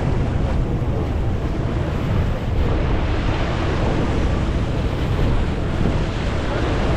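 Wind buffeting the microphone aboard a moving boat, a steady low rumble mixed with the rush of sea water.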